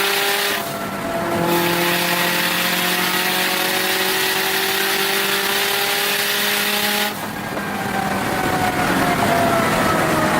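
Turbocharged Subaru WRX STI flat-four engine heard from inside the car at full throttle. It shifts up about half a second in and pulls with a slowly rising note, then the driver lifts off about seven seconds in and the note falls as the car slows.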